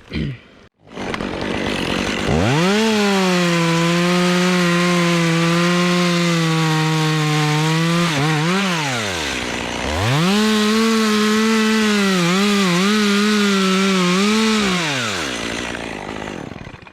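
Two-stroke chainsaw revved to full throttle and cutting through Leyland cypress wood for about six seconds, dropping off briefly. It then revs up again for a second cut of about five seconds, its pitch dipping a few times under load before winding down.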